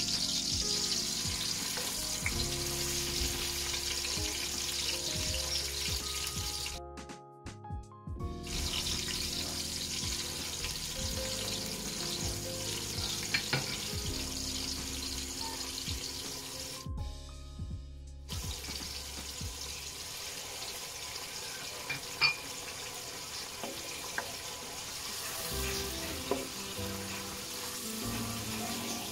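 Onion, garlic and tomato sizzling in hot oil in a steel wok, a steady frying hiss under background music. The hiss drops out briefly twice, and there are a few light clicks of a spatula against the pan.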